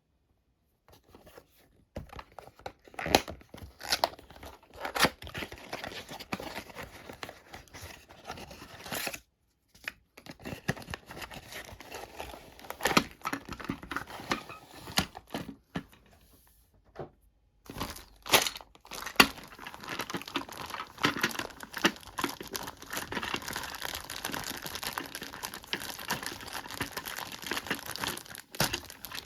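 Plastic packaging being torn open and crinkled by hand, irregular crackling with sharp snaps. It pauses twice briefly and turns into dense, continuous crinkling in the last third.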